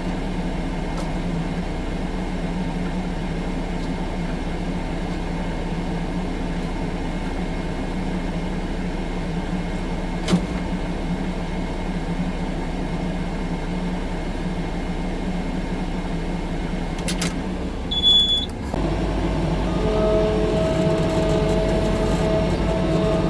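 Tracked skid steer's diesel engine running steadily, with a single sharp click about ten seconds in. Near the end there is a brief loud clatter with a short high tone, then the engine speeds up and its pitch rises.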